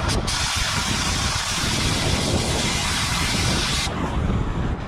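Cutting torch hissing steadily, the hiss cutting off suddenly about four seconds in as the cutting jet is shut. Wind buffets the microphone throughout.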